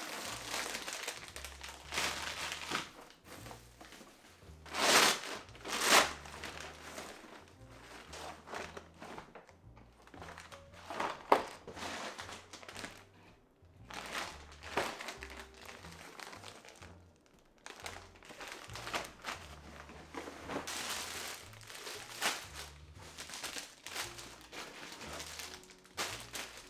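Grocery packaging rustling and crinkling in irregular bursts as a delivery is unpacked, with two louder bursts about five and six seconds in and a sharp click near the middle. Soft background music plays under it.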